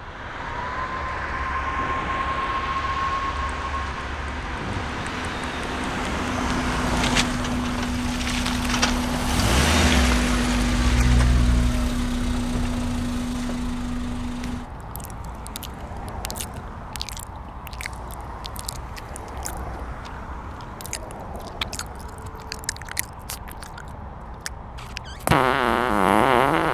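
Car-interior rumble with a steady hum tone that cuts off abruptly, followed by a run of quick sharp clicks, and near the end a short, loud, wavering warble.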